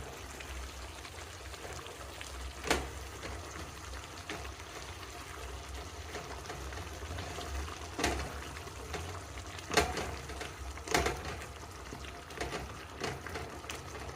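Chicken stew cooking in a pot with a steady sizzle and hiss, and a few sharp knocks of a spoon against the pot as it is stirred, the loudest about ten and eleven seconds in.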